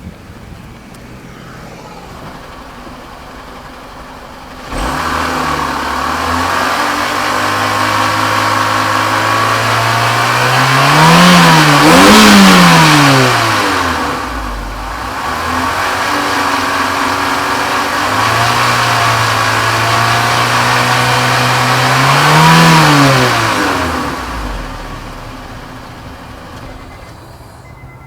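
2002 Honda Civic EX's 1.7-litre four-cylinder engine idling, then revved: it jumps suddenly to a steady raised speed about five seconds in, climbs to two quick peaks and drops back, is held up again, peaks once more and falls back to idle.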